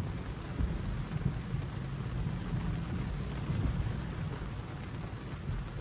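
Heavy rain hitting a car's roof and windshield, heard from inside the cabin as a steady hiss over a low rumble.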